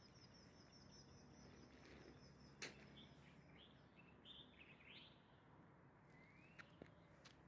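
Faint birds chirping: a rapid high trill during the first two and a half seconds, then a few short chirps and a rising call. A single sharp click comes about two and a half seconds in, and a few small clicks near the end.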